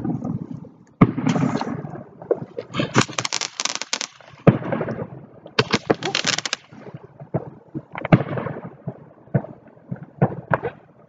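Consumer fireworks going off: a string of sharp bangs and pops, with dense crackling bursts about three and six seconds in.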